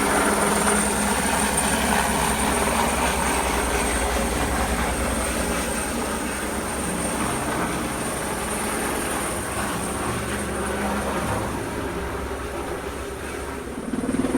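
Helicopter rotor beating close by, a steady rapid pulsing over a rushing noise that grows gradually fainter toward the end.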